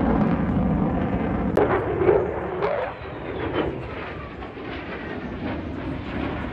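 Airshow aircraft flying past: a steady low engine rumble, then a run of sharp cracks starting about a second and a half in as the sound fades.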